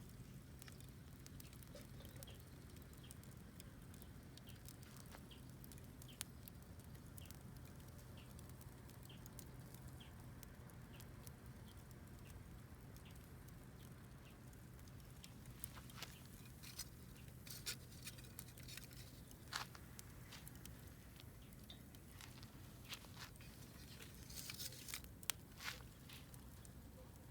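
Wood fire crackling faintly, with scattered sharp pops that come more often in the second half.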